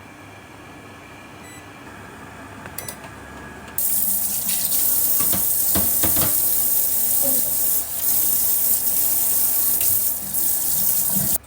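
Kitchen tap turned on about four seconds in, water running steadily into the sink, then cut off abruptly near the end.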